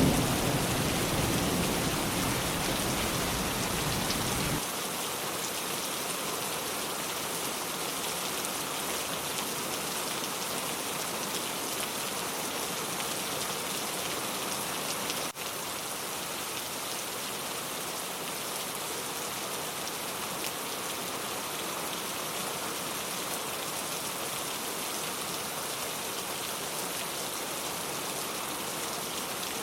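Steady rain falling, an even hiss of drops. A low thunder rumble dies away over the first few seconds and cuts off abruptly about four and a half seconds in; about halfway there is a momentary dropout.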